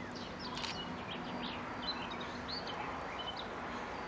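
Birds calling: many short, high chirps and whistles, some rising or falling, over a steady outdoor hiss.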